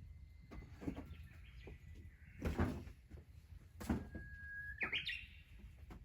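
A bird calling: a held whistled note that jumps up higher about five seconds in. Two sharp knocks stand out, about two and a half and four seconds in.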